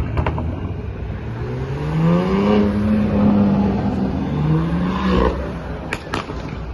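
A car engine revving: its note climbs for about a second and a half, holds, then dips and climbs once more before fading. Two sharp clicks come near the end.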